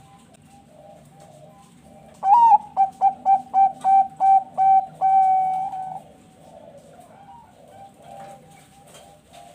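Zebra dove (Bangkok perkutut) singing: an opening note that rises, a quick run of about eight short staccato coos, then one long drawn-out final coo. Other zebra doves coo softly and repeatedly in the background.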